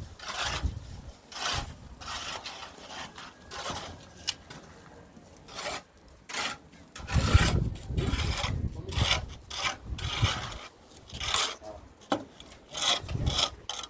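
Repeated rasping, scraping strokes of hand tool work on a building site, about one or two strokes a second and uneven in rhythm, with the heaviest strokes a little past the middle.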